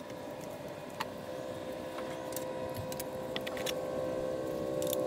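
Train approaching: a steady droning hum of several tones that sets in about a second in and keeps getting louder, with a few light metallic clicks from handling the mower's wheel parts.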